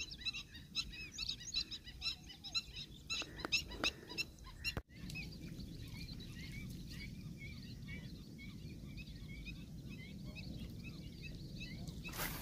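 Many small birds chirping and twittering in quick, overlapping calls. After a cut about five seconds in, a steady low outdoor noise runs under the calls, and a brief whoosh of noise comes near the end.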